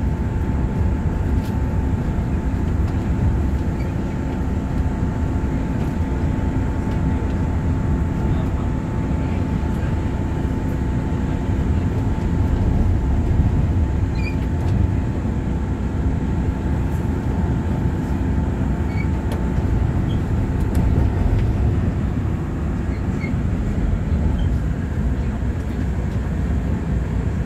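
Interior running noise of a Taiwan Railway EMU3000 electric multiple unit as it approaches Taipei station: a steady, loud rumble with a thin steady whine that fades out about 21 seconds in.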